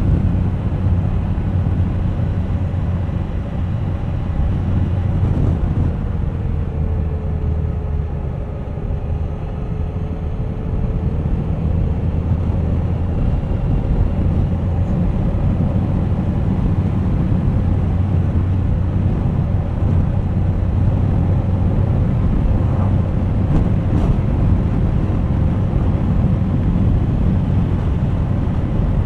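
Suzuki GSX1250FA's inline-four engine running steadily on the move, with road rumble. Its pitch dips and then climbs back between about six and thirteen seconds in.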